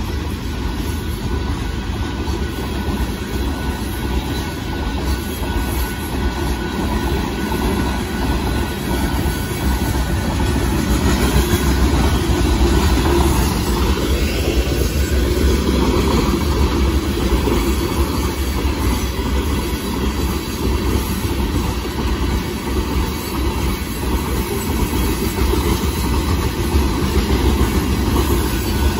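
Freight train of loaded open-top rock cars rolling past a road crossing: steel wheels running on the rails, a steady noise that grows louder about eleven seconds in.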